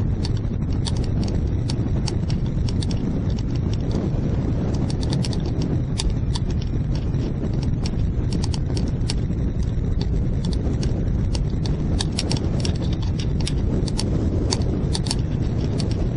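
Wind rushing over the microphone as a steady low rumble, with fast, irregular ticking and rattling over it.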